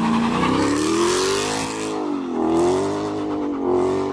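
Car engine accelerating, its pitch rising for about two seconds, dropping briefly about halfway through and then rising again.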